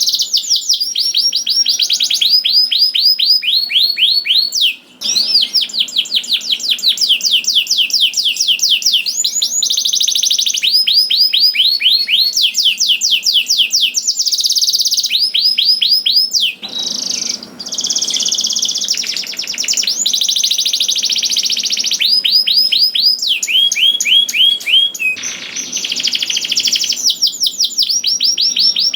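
Domestic canary singing a long, nearly unbroken song of fast, high trills. Each phrase is a rapid run of one repeated note before switching to the next, with a brief break about five seconds in.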